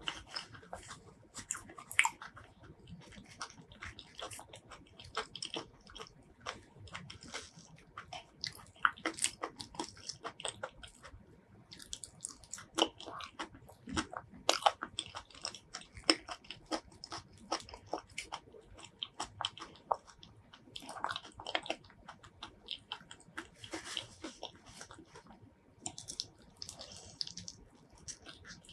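Close-miked ASMR eating sounds of someone biting and chewing soft durian flesh, heard as a dense run of short mouth clicks and pops.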